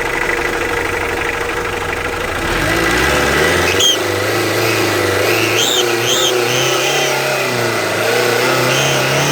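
Hyundai H200 diesel engine revved up about two and a half seconds in and held at raised revs, its pitch wavering, with short high chirps on top. The whistle comes from exhaust gas leaking past the gasket between the EGR and the exhaust manifold, whose bolts were not tightened.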